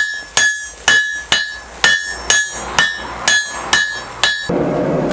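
Hand-hammer blows on a hot bog iron bloom over an anvil, struck in a steady rhythm of about two a second, each blow ringing with a clear anvil tone. The blows stop near the end and a steady rushing noise takes over.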